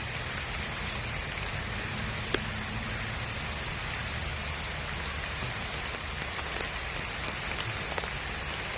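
Steady rain falling, with scattered drops tapping and one sharper tap about two and a half seconds in.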